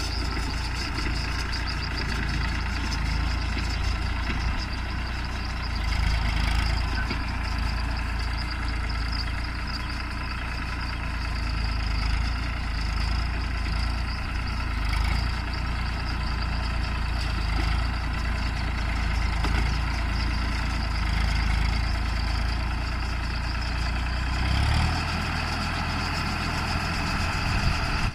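New Holland 3230 NX tractor's diesel engine running steadily while driving a round straw baler.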